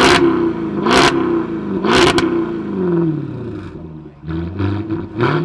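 Jaguar F-Type R's supercharged V8 being revved while standing: three quick throttle blips about a second apart, each rising and falling in pitch, then the engine settles lower before another blip near the end.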